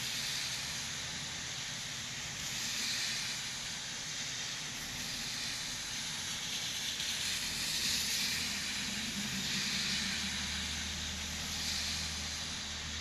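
Rain falling steadily: an even hiss that swells and eases every few seconds. A low rumble joins about halfway through.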